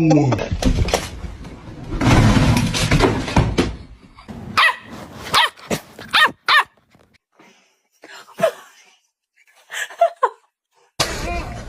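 A dog barking and whining: a string of short, high-pitched calls in the middle, then two more single calls after pauses.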